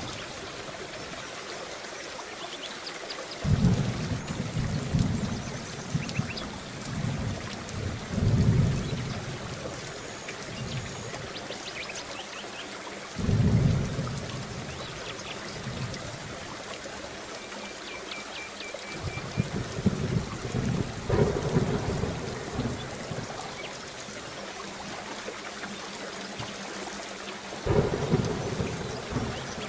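Steady rain falling, with rolls of thunder rumbling in about four times: a few seconds in, about halfway, around two-thirds of the way through, and near the end.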